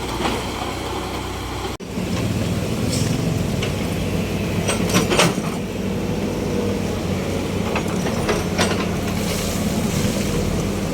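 Heavy diesel engine running steadily, with a brief dropout and a change of engine tone about two seconds in, and several sharp knocks over a constant hiss.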